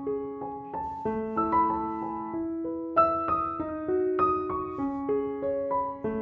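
Background piano music: a gentle melody of single struck notes at about two or three a second.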